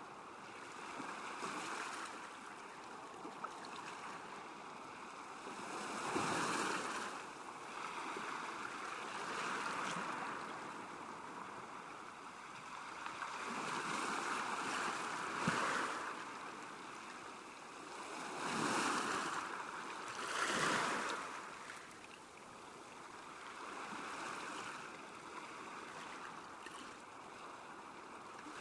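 Small waves lapping at a lakeshore: a steady watery wash that swells and fades every few seconds, with a few louder splashes.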